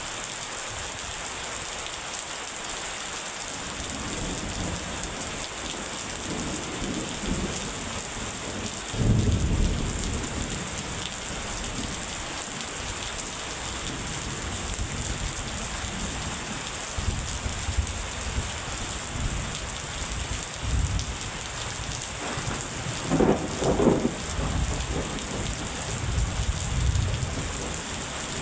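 Steady rain falling, with thunder rumbling low several times; the loudest rolls come about nine seconds in and again near the end.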